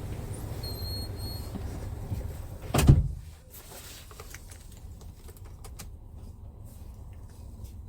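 A truck cab door shuts with a single heavy thud about three seconds in. The steady low engine rumble is noticeably quieter after it, and a few light clicks follow.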